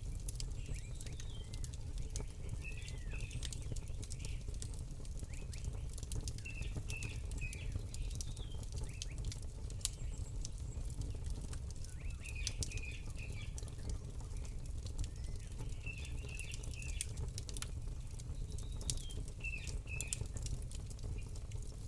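Campfire crackling, with scattered sharp pops over a steady low rumble. A small bird chirps in short bursts every few seconds.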